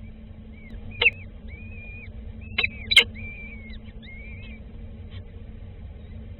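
Birds calling with thin, high whistled notes that rise and fall, repeated in short phrases. Three sharp clicks cut in, twice close together about three seconds in, the last the loudest, over a steady low hum.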